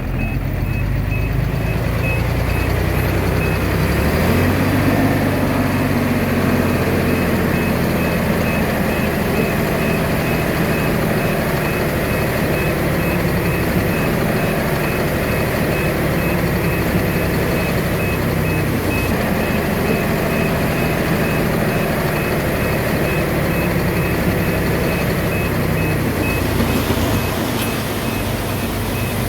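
Diesel engine of a Komatsu D21A bulldozer running under load, its pitch rising about four seconds in, with a reversing alarm beeping steadily throughout.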